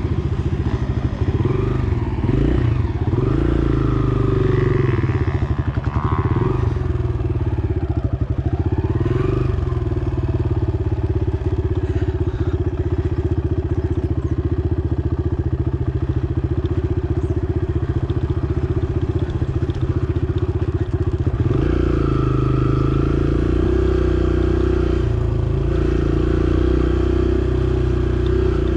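Dirt bike engine revving up and down over and over, then running at a steadier pitch from about three quarters of the way in.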